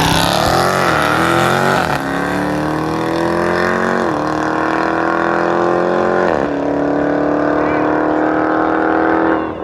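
Car engine accelerating hard after a launch, its pitch climbing through the gears with three quick upshifts, about two, four and six and a half seconds in.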